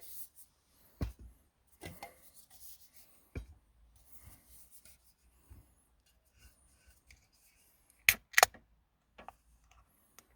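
Scattered knocks, light rustling and rubbing of gear being handled, with two sharp clicks close together about eight seconds in.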